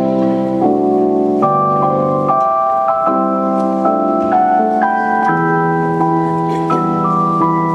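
Keyboard music: sustained, organ-like chords that change about once a second.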